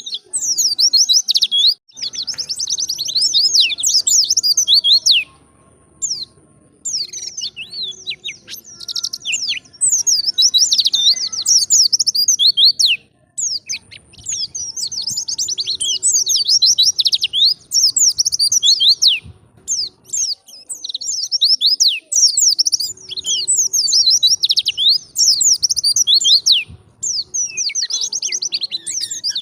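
White-eye (pleci) singing long, fast runs of high twittering chirps, with short breaks about six and thirteen seconds in.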